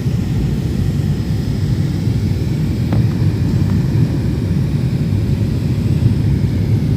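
Steady low rumble of airliner cabin noise during the descent to land: jet engines and airflow heard through the fuselage. A faint click about three seconds in.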